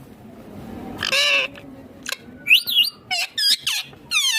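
Indian ringneck parakeet calling: one harsh call about a second in, then a quick run of short shrill calls that sweep up and down in pitch.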